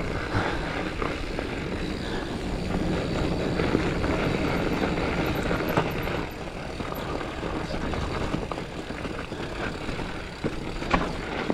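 Mountain bike rolling over a loose, rooty dirt trail: a steady rumble of tyre and wind noise, with scattered knocks and rattles from the bike and one sharper knock near the end.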